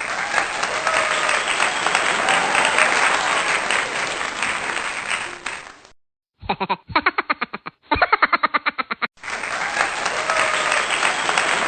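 Applause-like clapping and crowd noise, broken just after the middle by about three seconds of rapid, evenly repeating pitched pulses, roughly seven a second, before the clapping noise returns.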